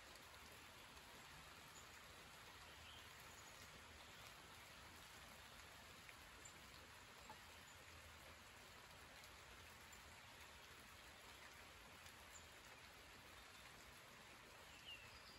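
Light rain falling: a faint, steady hiss with occasional drops ticking, and a faint bird chirp near the end.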